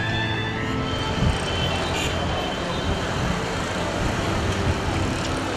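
Steady street traffic noise: road vehicles running by in a busy city street, with a few faint knocks.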